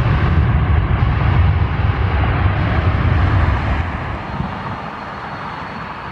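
Boeing 737-800 jet engines at go-around power, a loud steady low rumble that drops off about four seconds in. A faint high whine, slowly rising, follows it.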